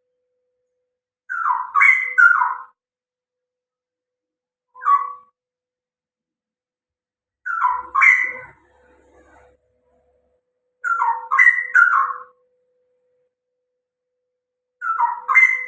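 Straw-headed bulbul (cucak rowo) singing: four loud warbling phrases of about a second and a half each, a few seconds apart, with one short single note between the first two.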